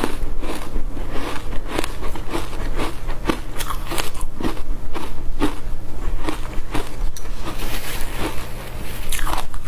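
Ice coated in matcha powder being bitten and chewed close to the microphone: a run of crisp crunches, about two to three a second, with a short quieter pause near the end.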